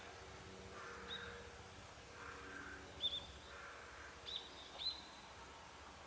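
Birds calling: a few short, high chirps, some in quick pairs, and three lower, noisier calls spaced over a second apart.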